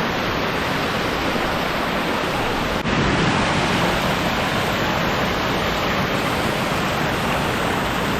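Waterfall rushing: a loud, steady wash of falling water, with a brief break about three seconds in.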